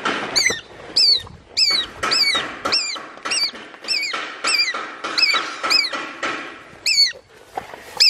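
A bird calling over and over, short high-pitched notes that rise and fall, about two a second, loud and close, with a brief gap near the end. Low rustling through grass fades out in the first few seconds.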